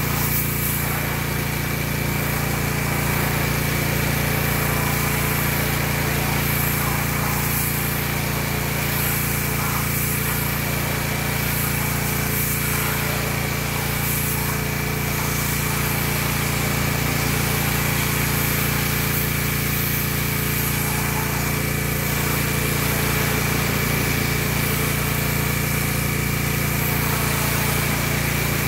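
Pressure washer with a small engine running steadily at an even, unchanging pitch, with a hiss over it.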